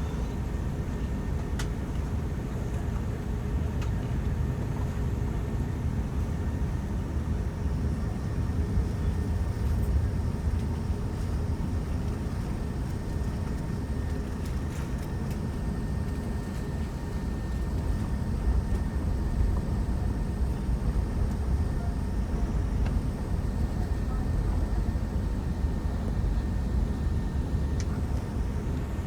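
Airbus A380 cabin noise while taxiing after landing: a steady low rumble with a few faint steady hums above it.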